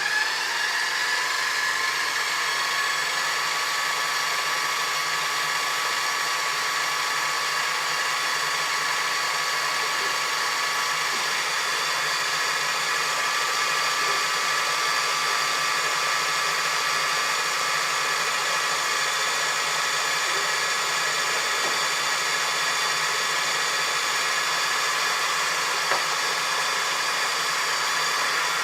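Food processor motor whirring steadily at high speed as it blends egg yolks, mustard and lemon juice into mayonnaise while olive oil is poured in. Its pitch rises in the first second as the speed is turned up, then holds steady.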